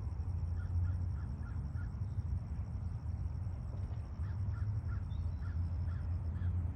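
Distant birds calling in two short series of about five quick calls each, one near the start and one past the middle, over a steady low rumble.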